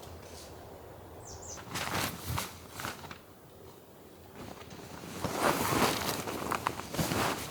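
Footsteps crunching and rustling on the ground in irregular steps, with a busier stretch of steps in the second half. A short high double chirp sounds about a second in.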